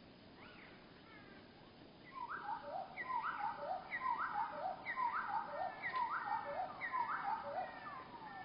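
A bird call slowed to one-third speed, so it comes out low and drawn-out: from about two seconds in, the same short phrase of linked notes repeats about eight times in a steady rhythm, a little over one a second.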